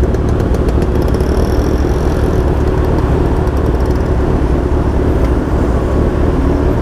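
Motorcycle engine idling steadily while stopped at a traffic light, amid the hum of surrounding traffic.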